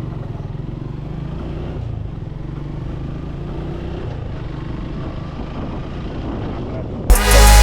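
Suzuki Gixxer 155's single-cylinder engine running at a steady, low pitch while riding. Loud electronic music with heavy bass cuts in suddenly near the end.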